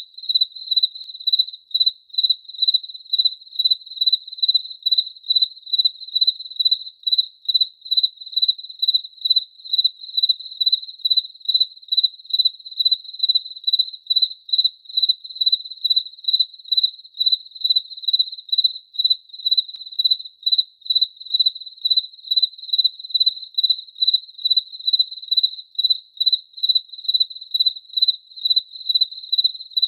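A cricket chirping steadily: one high-pitched chirp repeating evenly, about twice a second.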